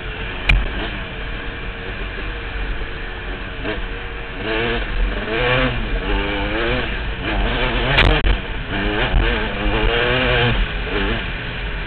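KTM dirt bike engine running under way, revving up and down repeatedly as it climbs the trail, with wind buffeting the helmet-mounted mic. Two sharp knocks stand out, about half a second in and about eight seconds in.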